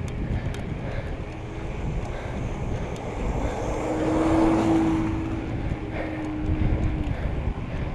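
A vehicle passing close by, its engine tone swelling to a peak about halfway through and fading with a slight drop in pitch, over a steady rumble of wind on the microphone from riding a bicycle.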